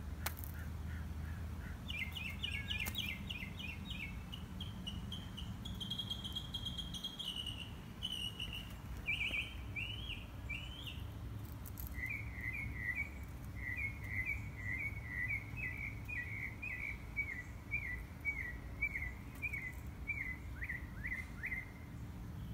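Songbirds singing: a quick chattering run of high notes for several seconds, then, after a short break, a long string of rapid repeated chirps. A low steady background rumble runs under them.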